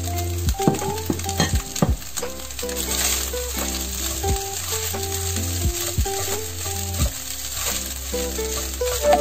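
Rice and egg sizzling in a hot non-stick wok while a spatula stirs and scrapes through it, with scattered clicks of the spatula against the pan. Background music with a steady bass line plays throughout.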